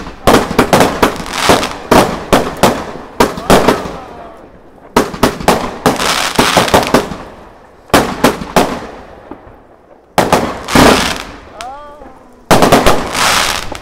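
Fireworks going off: volleys of loud, sharp bangs in quick succession with echoing tails, in clusters separated by brief lulls.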